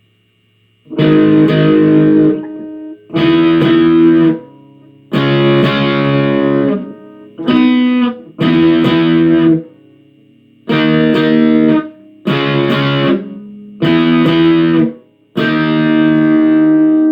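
Guitar playing a chord progression of down-strummed chords: about nine chords, each ringing for roughly a second with short gaps between them, the last one held.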